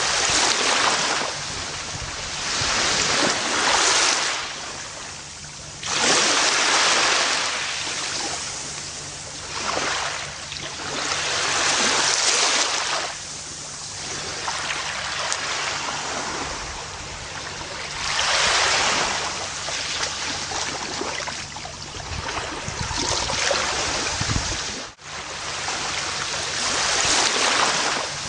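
Gentle ocean waves breaking and washing up on a beach, each surge swelling and fading over a few seconds. A momentary gap in the sound comes near the end.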